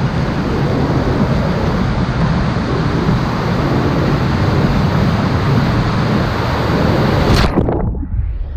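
Loud rushing river water from a kayak run through rapids, with a low rumble of wind on the microphone. Near the end the hiss drops away suddenly and the sound turns muffled.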